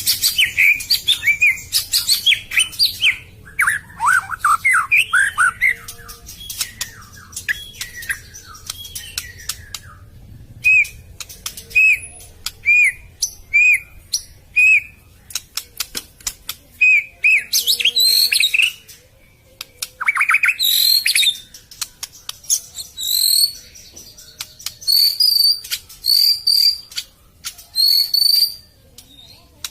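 White-rumped shama (murai batu) singing: a varied run of whistled phrases mixed with sharp clicking notes, with a string of evenly repeated whistles midway and higher whistled notes toward the end.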